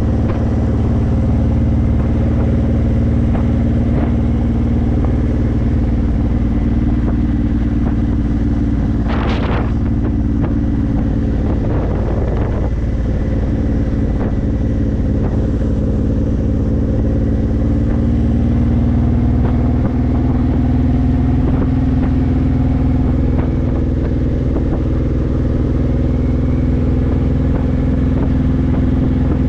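Honda VTX1800's 1800cc V-twin with Vance & Hines aftermarket pipes, running steadily at cruising speed. The engine note rises slightly around twenty seconds in, and a brief rush of noise comes about nine seconds in.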